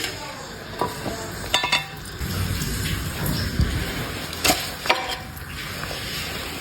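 A dog eating from a bowl: chewing and rustling food, with a few sharp clinks of the bowl, two about a second and a half in and two more near the end.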